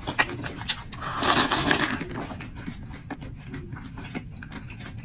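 Close-up eating sounds: irregular chewing clicks and mouth smacks as hot food is eaten, with a louder noisy burst about a second in.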